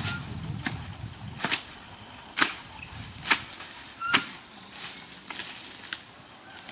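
Sharp taps or clicks repeating roughly once a second, over a low steady background.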